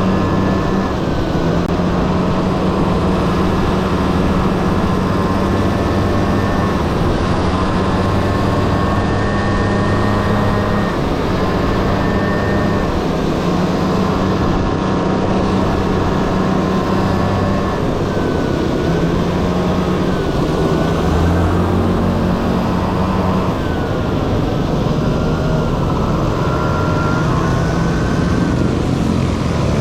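Honda Dio AF18 scooter's small two-stroke engine running under way, its pitch rising and falling again and again as the throttle opens and closes.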